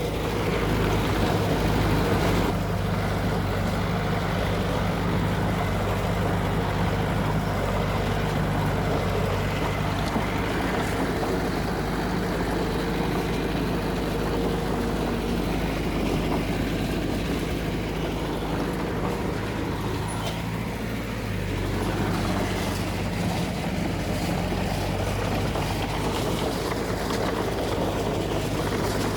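Heavy diesel earthmoving machine running steadily, its engine note shifting slightly a little after the middle.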